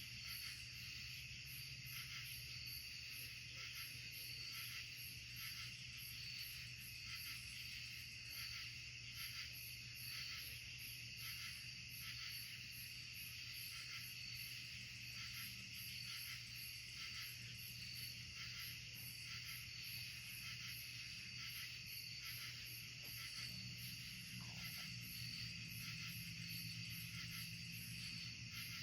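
Night chorus of insects: a steady, high-pitched trill that pulses a few times a second, with a faint steady low hum underneath.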